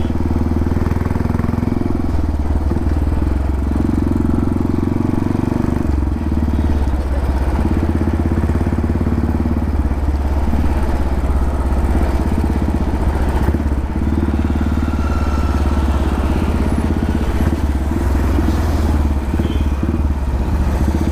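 Royal Enfield Classic 350's single-cylinder engine running steadily through its modified dual exhaust, a continuous deep, even exhaust note.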